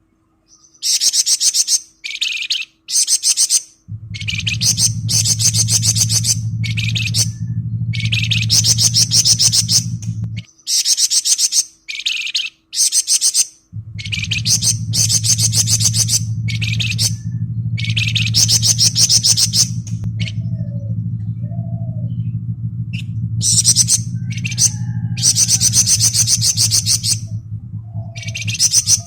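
Flamboyan songbird singing ngebren: high-pitched, rapid rattling trills in bursts of about half a second to two seconds, repeated again and again with short gaps. A steady low hum runs underneath, dropping out for a few seconds near the middle.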